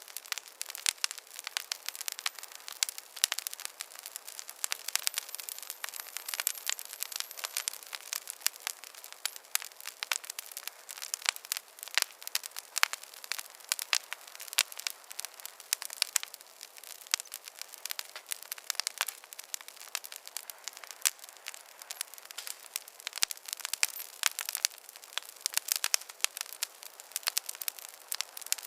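Wood fire crackling in a fireplace: a dense, irregular run of sharp pops and snaps over a soft hiss, with little low end.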